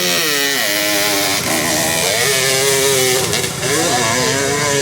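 Dirt bike engine in the 200–250cc class revving, its pitch sweeping up and falling back again and again with throttle and gear changes. It dips briefly about three and a half seconds in, then rises again.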